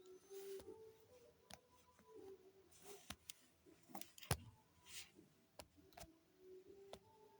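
Near silence: faint room tone with scattered soft clicks, the sharpest one a little past the middle.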